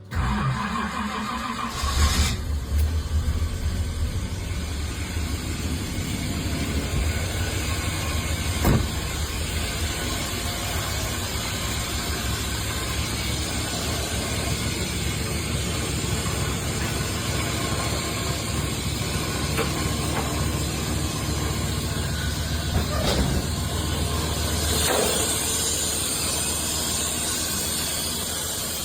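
Old car's engine starting near the beginning and then running at a steady idle, with a sharp click about nine seconds in.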